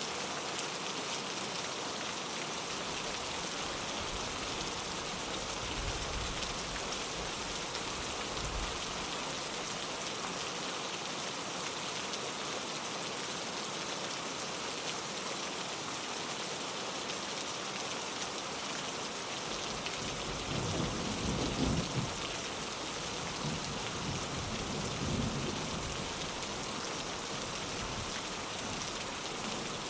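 Steady rain pattering on a window pane, with low rolls of thunder. The thunder comes twice, a weaker roll about a quarter of the way in and a louder one about two-thirds through.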